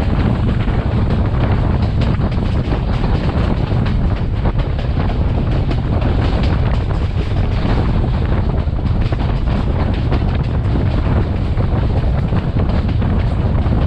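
Class S13 diesel multiple unit running at speed: a steady, loud rumble with wind buffeting the microphone.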